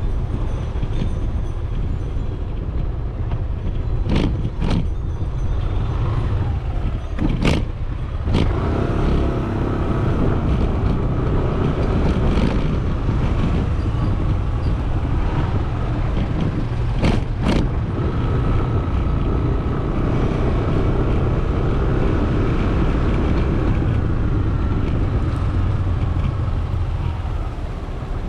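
Riding on a motorcycle: steady engine running and wind rush. There are a few sharp knocks: two about four seconds in, one near eight seconds, and two about seventeen seconds in.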